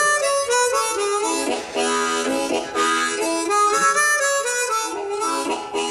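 Harmonica playing an instrumental break, a run of chords and single notes that change several times a second.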